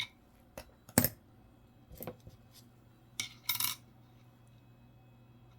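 Dimes clicking and clinking as they are handled, flipped and set down: a few sharp clicks, the loudest about a second in, and a quick cluster of clinks around three and a half seconds. A faint steady low hum lies underneath.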